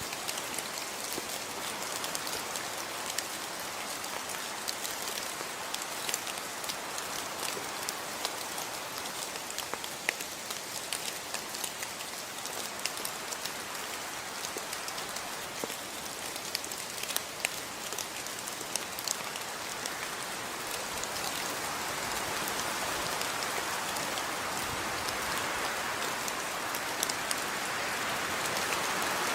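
Steady rainfall with individual drops pattering and dripping on a surface, growing slightly heavier after about twenty seconds.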